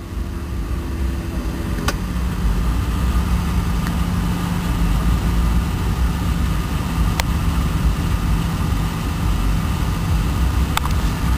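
1993 Lincoln Town Car's 4.6-litre V8 idling steadily, with a few brief clicks.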